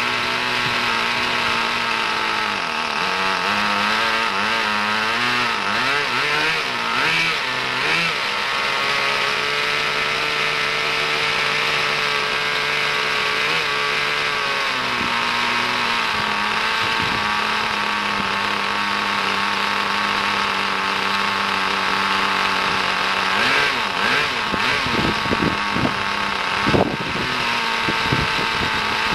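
Brand-new Kyosho GS 11 X nitro engine of an RC car running on its first run, mostly at a steady idle, with the pitch wavering early on and a string of short, sharp throttle blips a little before the end.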